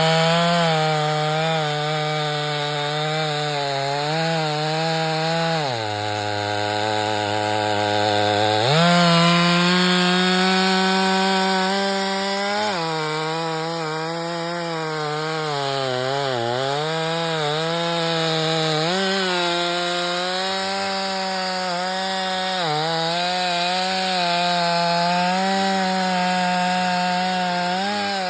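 Stihl chainsaw running at high revs while cutting firewood, its pitch sagging and recovering as the chain bites into the log. About six seconds in it drops to a lower, steady pitch for around three seconds, then revs back up.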